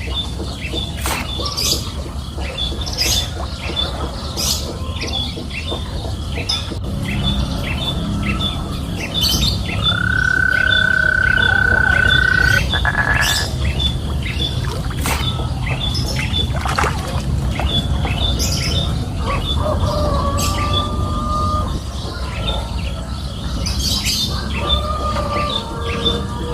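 Birds chirping and calling, with a short high note repeated about twice a second, scattered sharp chirps and one long held note about ten seconds in, over a steady low background hum.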